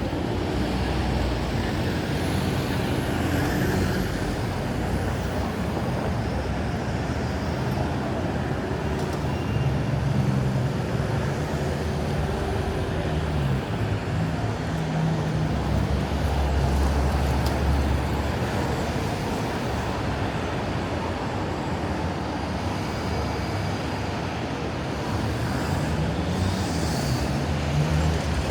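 Road traffic on a city street: a steady roar of passing vehicles, with the low hum of engines rising and falling as they go by.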